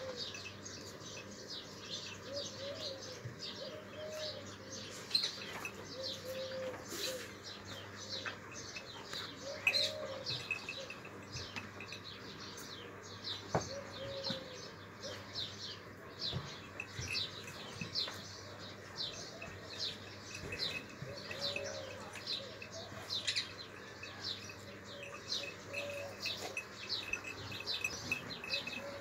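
Birds chirping: short high chirps repeated about twice a second throughout, with a lower, brief rising-and-falling call every few seconds.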